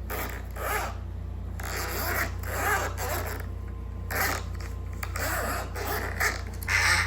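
Sound effect of short raspy, zipper-like strokes, repeated unevenly about a dozen times.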